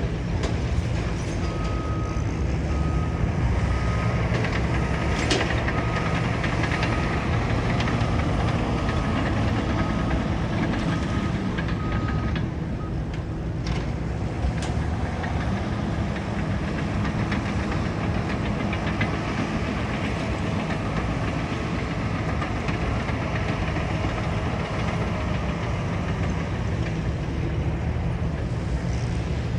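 Caterpillar bulldozer's diesel engine running steadily under work. Its backup alarm beeps repeatedly for about ten seconds, then stops. There are a few metallic knocks.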